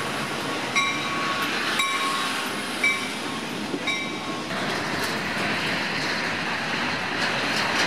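Freight train cars rolling past close by: a steady rattle and rush of wheels on rails, with short high metallic squeaks about once a second in the first half, and the running noise growing fuller about halfway through.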